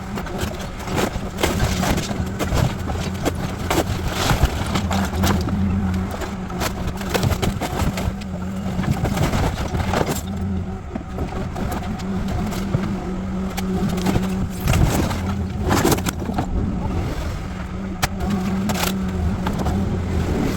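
Demolition machinery at work: an engine running steadily under many sharp cracks, knocks and scrapes of building debris being broken and moved.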